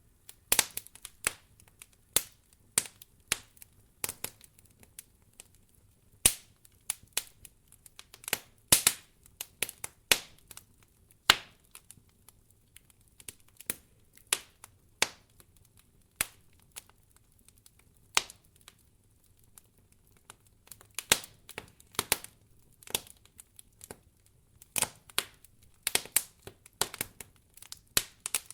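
Wood fire crackling in a fireplace: irregular sharp snaps and pops, one to a few a second with uneven gaps between them.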